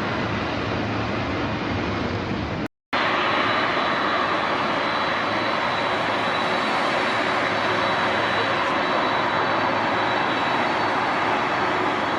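Jet airliner engines running with a steady rushing noise. The sound cuts out completely for a moment about three seconds in, then returns with a steady high whine over the noise.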